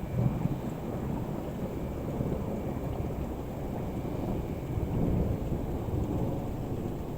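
Rolling thunder rumbling low and long after a nearby strike, swelling again about five seconds in and easing off near the end.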